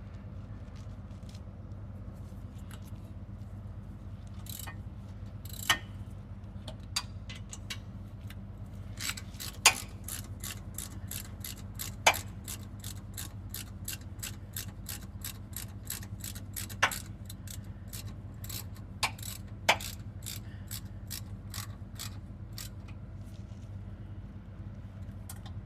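Hand ratchet tightening the 17 mm rear hub bolts: runs of quick pawl clicks, densest from about a third of the way in to near the end, with a few louder metallic knocks as the socket is set or moved between bolts. A steady low hum runs underneath.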